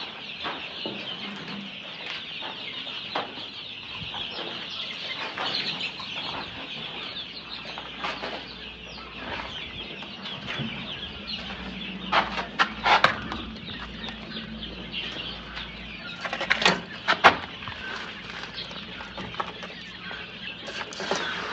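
A flock of chickens calling continuously in a dense, high-pitched chorus of cheeps and clucks. Short, loud clusters of sharp sounds come twice, about twelve seconds in and again about sixteen seconds in.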